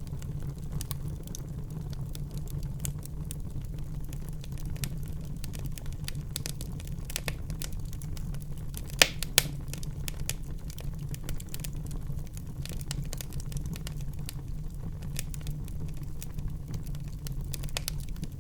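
Wood fire burning in a fireplace, crackling with irregular small pops over a steady low rumble of the flames. Two louder sharp pops come in quick succession about halfway through.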